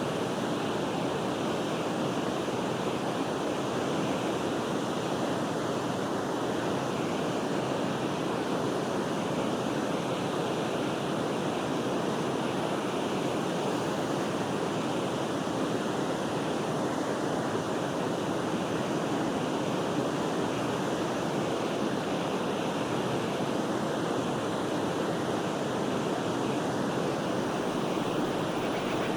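Flowing water of a forest river, an even, unbroken rush.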